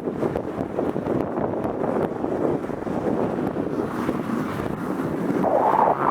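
Wind rushing over the microphone of a camera riding along on a fat bike in winter, a steady noisy rush that grows louder near the end.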